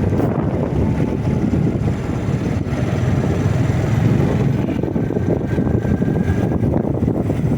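A motorcycle being ridden: a steady rush of noise from the ride and the engine running, with no change through the stretch.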